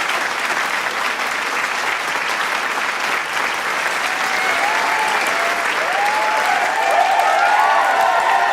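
Large crowd applauding with dense, steady clapping; from about halfway through, cheers and whoops rise over the clapping and grow louder toward the end.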